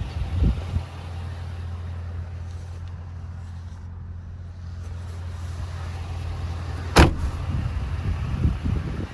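Ford 5.4 Triton V8 idling steadily with a low hum. A single sharp click or knock comes about seven seconds in, with a few softer thumps around it.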